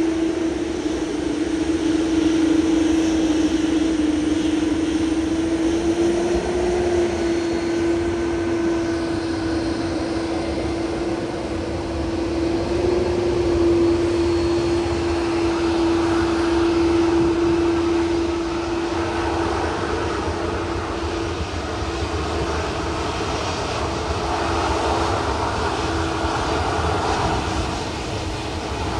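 Jet airliner engines running with a steady, slightly wavering whine over a broad rush of engine noise; the rush grows somewhat in the second half.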